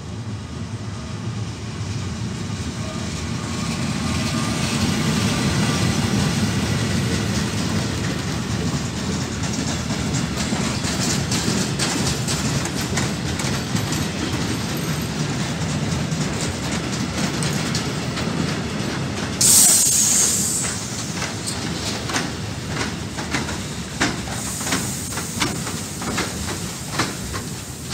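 Freight train rolling past: an FS E.652 electric locomotive followed by flat wagons loaded with rails, a steady rumble of wheels on track. A brief loud hiss comes about two-thirds of the way through, and in the last several seconds the wheels click repeatedly over the rail joints.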